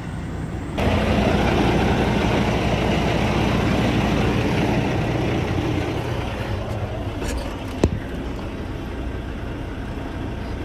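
A semi truck's diesel engine running at idle. A loud rushing noise starts suddenly about a second in and eases off over several seconds. A single sharp click comes near the end.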